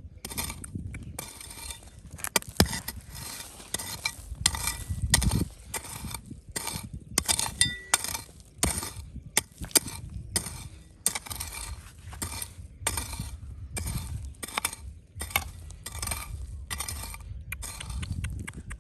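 Stones scraping and clinking in repeated digging strokes, roughly one a second, with a few sharper clicks of stone striking stone.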